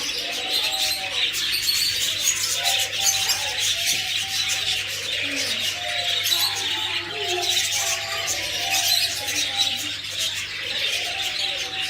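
A crowd of caged birds chirping and calling together, many quick high chirps overlapping, with lower cooing calls running underneath.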